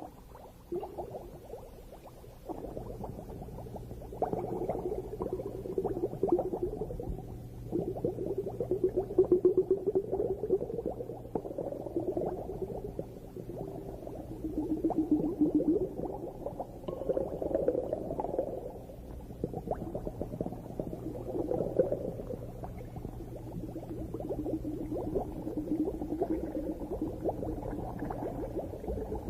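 Underwater recording of bubbling and gurgling that swells in bursts every few seconds, over a faint, low, steady hum.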